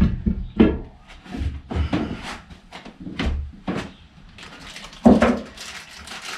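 Irregular knocks and clunks of parts and tools being handled at the workbench while wheel bearings are worked on, about eight in all, the loudest about five seconds in.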